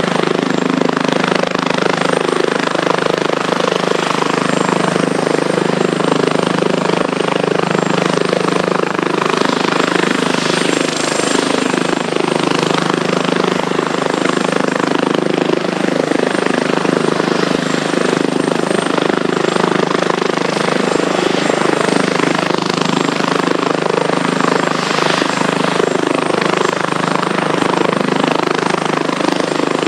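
Airbus Helicopters H145 D2 running steadily: its twin turboshaft engines give a thin, high turbine whine over a dense, constant rotor and engine noise, with no change in power.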